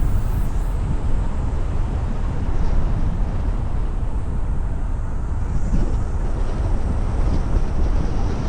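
Steady road noise of a car driving: low tyre and wind rumble with no distinct events.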